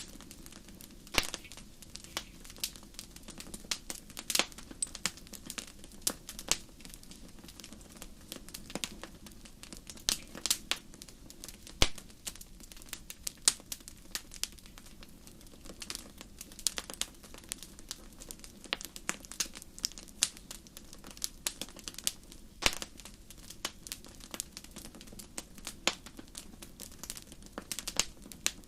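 Wood campfire burning, crackling with irregular pops and a few louder snaps over a low steady rumble of the flames.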